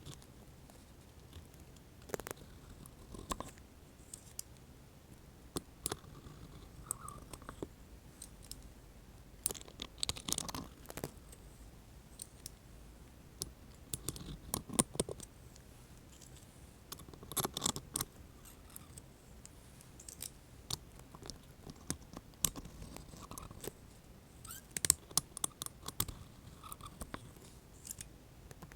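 Tongs being clicked and handled in an ASMR trigger: irregular sharp clicks and short scratchy rustles, separated by brief pauses.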